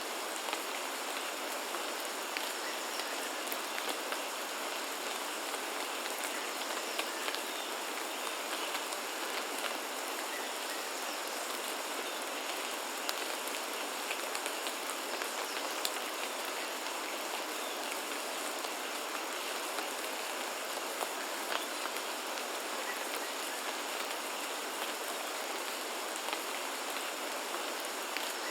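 Steady rain falling: an even hiss of rainfall with many small, sharper drop ticks scattered through it.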